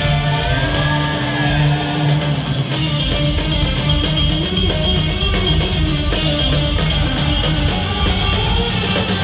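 Live progressive metal band playing an instrumental passage: electric guitars over bass and drum kit, with no vocals.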